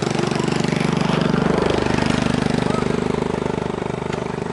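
A small engine running steadily close by, with a fast even pulse; its pitch shifts slightly about halfway through.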